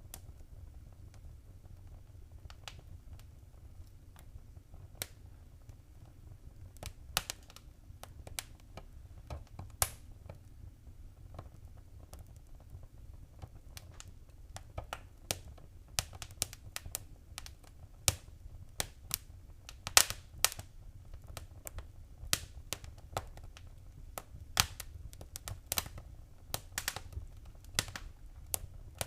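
Wood fire crackling in a fireplace: irregular sharp pops and snaps over a low steady rumble of the flames, sparse at first and coming thicker from about halfway on.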